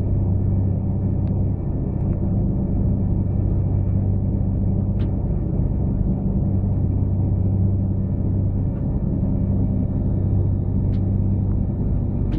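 Steady low rumble and drone of a moving train, heard from inside the passenger carriage, with a few faint clicks.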